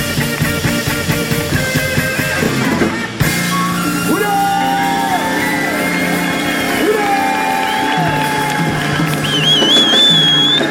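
Live rock and roll band playing. About three seconds in, the steady drumbeat drops away. Long held lead notes with pitch bends carry on over a sustained bass, and a high wavering line comes in near the end.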